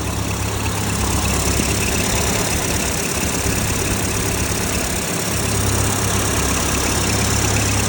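1928 Ford AA truck's four-cylinder engine idling steadily, a low even drone.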